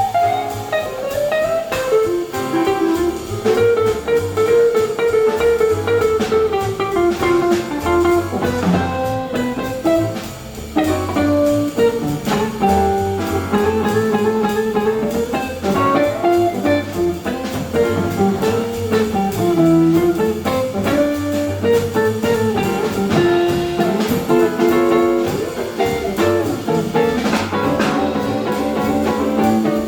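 Small jazz combo playing: a single-line melody over double bass and drums, with guitar prominent.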